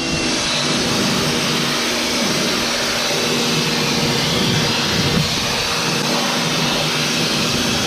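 Pressure washer running steadily, its jet spraying water to clean out a grain storage container, a constant motor hum under a loud hiss.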